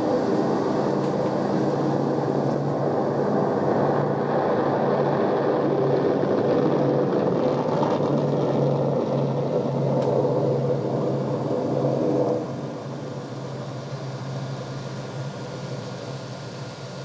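A recorded sound effect played back from a cassette on a 1976 Sony TC-520CS: a steady mechanical rumble with a low hum, which drops abruptly about twelve seconds in to a quieter, steady whooshing noise.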